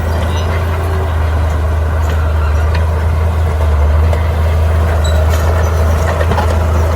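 Bulldozer's diesel engine running steadily under load: a deep, even drone with a few faint clanks over it.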